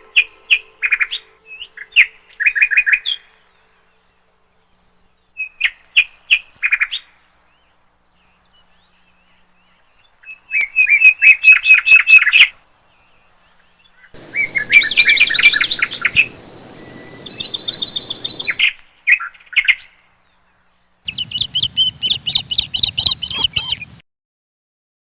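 Birds chirping in a string of separate bursts of rapid repeated high notes, each lasting a few seconds, with dead silence between them.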